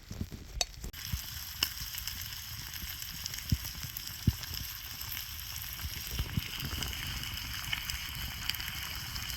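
Food frying in a pan, with a steady sizzle and a few sharp pops. The sizzle starts about a second in.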